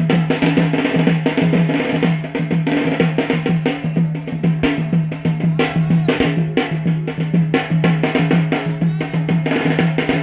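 Drums for the Yemeni bara' dance playing a fast, driving rhythm of rapid repeated strokes, with a deep pitched drum note sounding through it.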